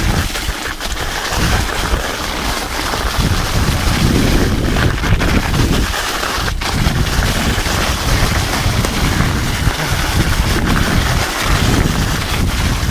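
Steady, loud wind rumble on the microphone from riding, over the crackling roll of studded mountain-bike tires on an icy trail, with scattered clicks and knocks from the bike.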